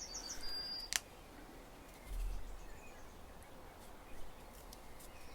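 Faint rustling and creasing of origami paper being folded by hand, with a sharp paper click about a second in. A small bird gives a quick run of high chirps at the start.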